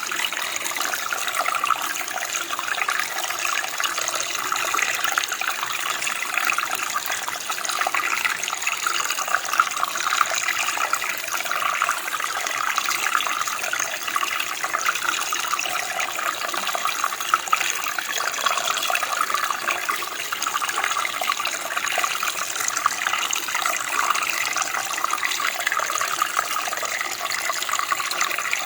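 Running water flowing steadily, a continuous splashing rush with no pauses.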